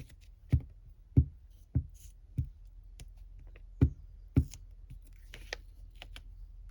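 About six soft thuds and taps on a desk in the first four and a half seconds, with fainter paper clicks and rustles between them: paper cut-outs being glued and pressed down onto a card.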